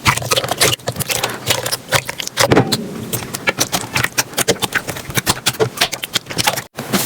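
Slime being squished and pressed by hand, making a dense run of crackling, popping clicks, with a brief drop-out near the end.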